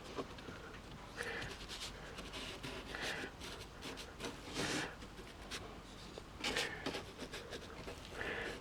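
Faint, intermittent rustling and scratchy brushing of toilet paper being handled and dabbed down with a glue brush.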